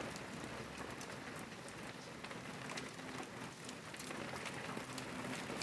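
Fat, heavy rain falling steadily, with many individual drops striking close by.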